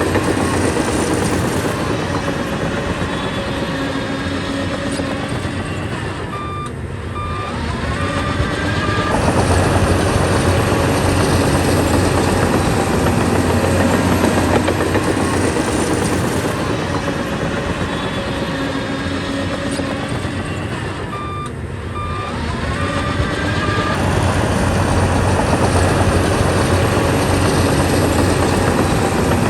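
Heavy diesel earthmoving machinery, a bulldozer among it, running steadily and hard. Twice the engine eases slightly, and each time a run of short beeps sounds, like a reversing alarm.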